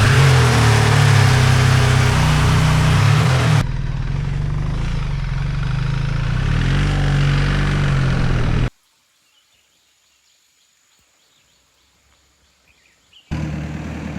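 BMW R 1300 GS Adventure's boxer-twin engine running steadily, heard in two shots that change about three and a half seconds in. It cuts off abruptly about nine seconds in, leaving near silence for about four seconds, and an engine sound returns near the end.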